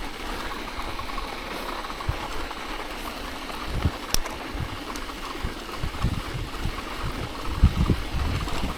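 Bicycle tyres rolling over snow: a steady hiss, with irregular low thumps and a single sharp click about four seconds in.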